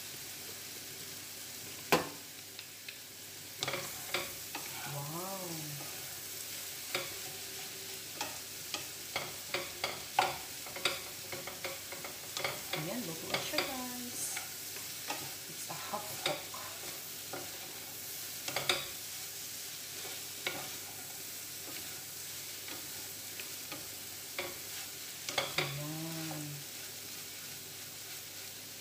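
Wooden spatula stirring sliced bitter gourd in a coated frying pan, with irregular clacks and scrapes against the pan over a steady sizzle of frying.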